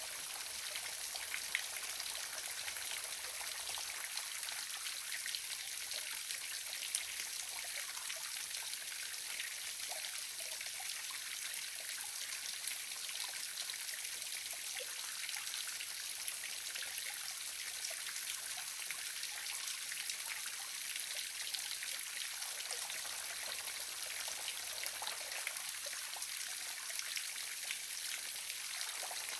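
Small waterfall splashing and trickling: a steady, even hiss of falling water with light splashes.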